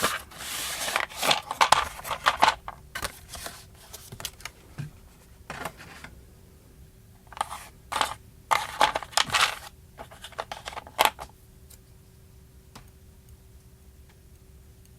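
Repair-kit packaging being opened and handled: a run of irregular short rustles and scrapes that stops about eleven seconds in. After that only a faint steady hum remains.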